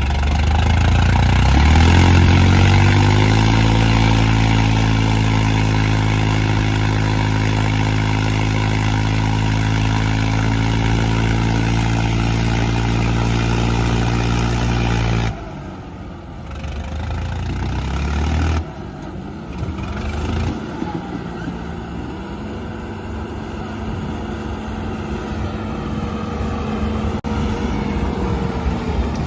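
Diesel tractor engines of a Swaraj 855 and a John Deere 5075E, chained together in a tug-of-war. They rev up over the first few seconds, then hold at high revs under heavy pulling load. About halfway through the sound drops abruptly; the engines then run lower and slowly climb again toward the end.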